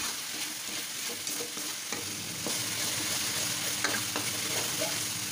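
Spice paste sizzling steadily in a hot wok while a spatula stirs and scrapes through it.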